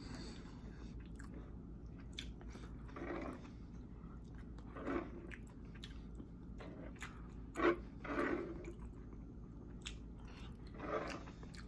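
A person chewing close to the microphone: soft wet mouth sounds as he eats saucy chicken and rice off chopsticks, with a louder smack or slurp about every two to three seconds and a few faint clicks.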